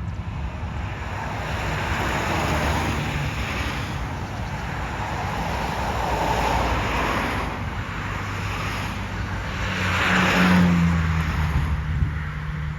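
Airbus A320 jet engines rushing, swelling and easing, loudest about ten seconds in, where a low hum drops slightly in pitch as the plane passes.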